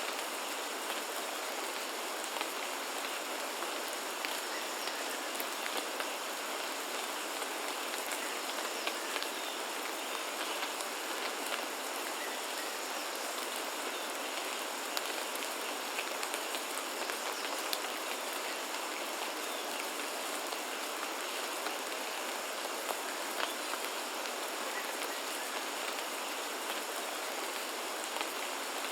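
Steady rainfall in a rainforest: an even hiss of rain with many small, sharp drop hits scattered through it.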